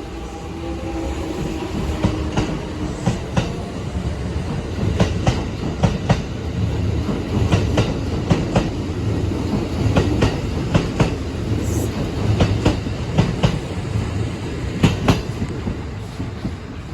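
Kintetsu electric train, a 1233-series set coupled to an 8000-series set, running past with a steady low rumble and a long run of sharp clacks as its wheels cross rail joints. A faint steady whine fades out in the first two seconds.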